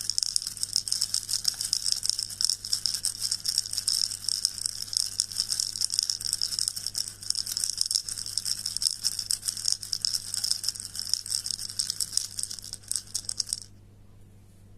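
Soft, dense rustling made of many rapid tiny clicks and crackles, which stops suddenly near the end, leaving a faint low hum.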